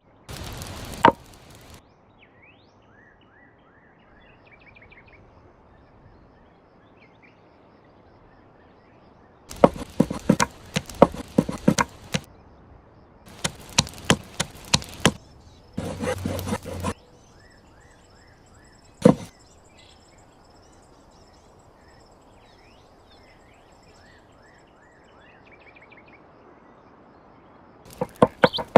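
Knife chopping on a wooden cutting board in several quick bursts of sharp strikes, with a few single knocks between them. Birds chirp faintly in the pauses.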